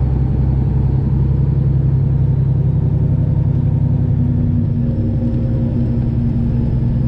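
Semi truck's Detroit Diesel 12.7-litre engine running with a steady low drone. A higher tone joins in a little past the middle.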